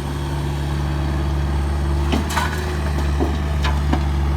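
Diesel engine of an earthmoving machine running steadily, with a few sharp knocks and clanks from about two seconds in.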